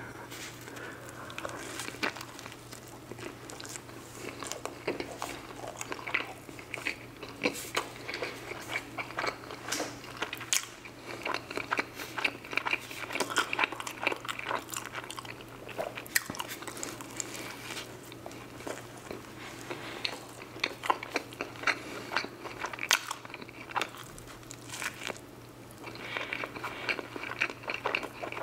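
Close-miked biting and chewing of a cheeseburger dipped in sauce: many short, irregular wet clicks and crunches of mouth noise, over a faint steady low hum.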